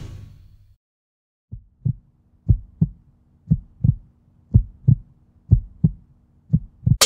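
Heartbeat sound effect: six double 'lub-dub' thumps, about one a second, over a faint low hum.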